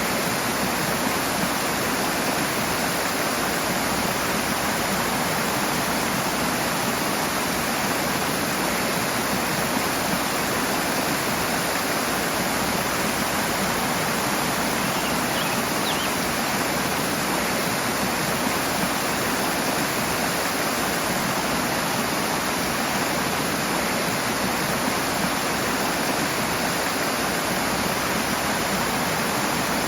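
Rushing water, a fast-flowing stream, making a steady, even rushing noise with no change throughout.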